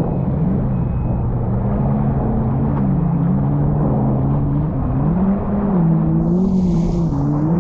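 Jet ski engine running close by, its pitch wavering up and down as the throttle is eased on and off. A burst of hiss comes in near the end.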